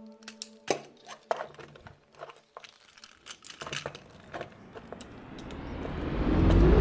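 Plastic toy and its packaging being handled: scattered sharp clicks and crinkles. Over the last couple of seconds a rising whoosh builds into electronic music.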